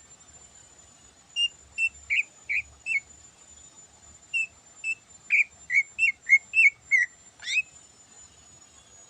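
Greater green leafbird (cucak ijo) singing: a string of short, clear whistled notes, five at first and then after a pause about nine quicker ones, ending in a fast upward sweep.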